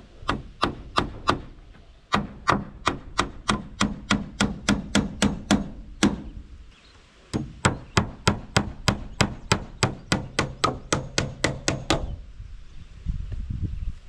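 A hammer striking in three runs of rapid, evenly spaced blows, about three to four a second, with short pauses between the runs.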